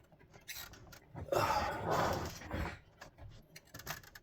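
Small plastic clicks from working an electrical connector loose from a car headlight's module, with a louder, even noisy stretch of about a second and a half in the middle.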